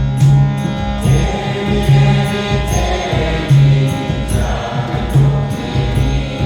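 Kirtan music: a voice chanting a mantra over a steady instrumental drone, with a repeating low beat. The voice comes in about a second in and fades before the end.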